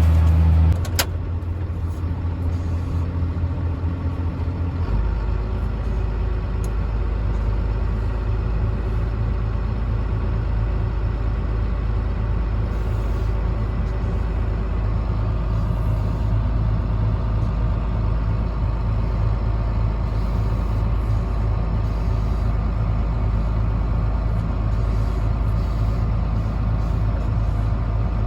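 Combine harvester engine running steadily under load while cutting soybeans, a constant low mechanical hum that settles into a deeper drone about five seconds in. Background music ends about a second in.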